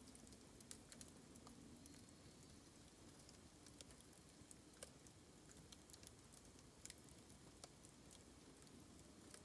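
Bamboo burning in an open fire, crackling faintly with scattered small sharp pops at irregular intervals.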